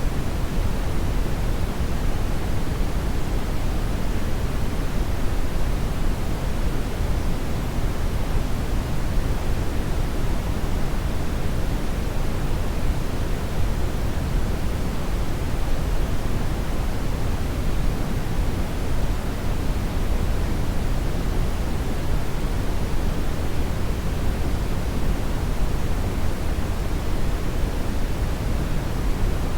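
Hair dryer running steadily: a constant, even rush of blown air, fuller in the low end, with no change in speed or setting.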